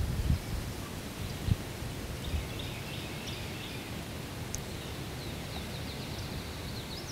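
Outdoor woodland ambience with small songbirds chirping and twittering faintly in the background, over a steady low rumble, with a few dull low thumps in the first couple of seconds.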